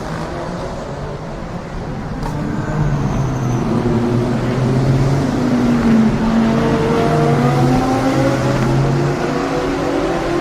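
Several GT3 race cars passing at speed, their engines overlapping and rising and falling in pitch as they change gear; the sound builds to its loudest about six seconds in.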